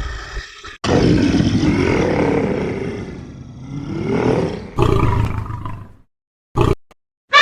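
A large animal's rough, roaring call: one long call whose pitch rises and falls, a second shorter call, then a brief snippet that cuts off abruptly near the end.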